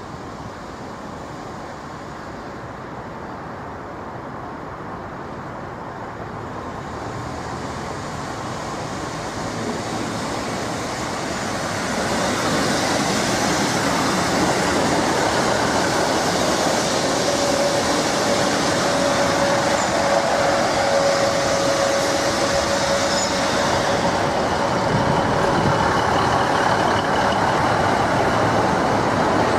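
A train approaching along the platform, growing steadily louder over the first twelve seconds and then holding. A steady high tone sounds for several seconds about halfway through.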